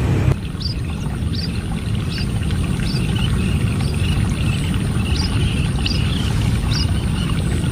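A flock of birds calling: short, high, falling calls repeat about every second over continuous twittering, with a steady low rumble underneath.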